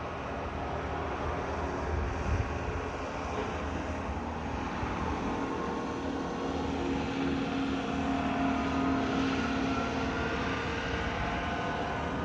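A motor runs steadily with a low rumble and a faint hum that is strongest around seven to ten seconds in.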